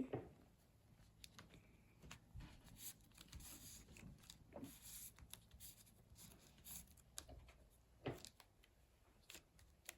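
Faint soft brushing and rubbing with scattered light clicks: a paintbrush spreading paint on a leaf, and the leaf and paper being handled on the table.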